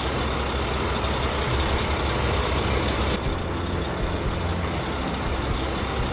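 Heavy construction vehicle's engine running steadily, a dense low drone with hiss.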